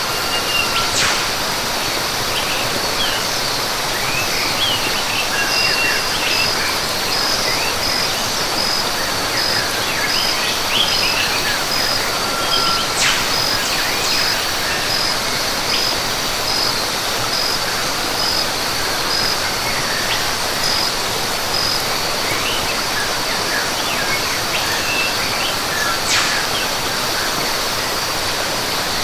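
Rainforest ambience: a steady waterfall rush under scattered chirping bird calls. One bird repeats a call three times, each a held note followed by a quick rising sweep. A high, evenly pulsing insect call runs through the middle.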